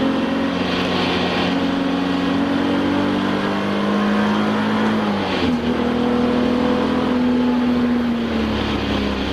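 Touring race car's engine at high revs, heard from inside the cockpit. The engine note climbs slowly, drops sharply about five seconds in, climbs again and falls away near the end.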